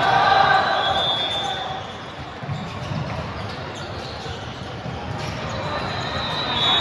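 Indoor gym din during a volleyball match: many voices of players and spectators swelling near the start and again near the end, with thuds of the ball on hands and floor.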